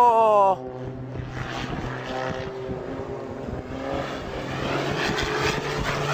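Aircraft engine noise. A loud tone falls in pitch and cuts off abruptly about half a second in, then a steadier engine hum carries on, with rushing noise growing louder toward the end.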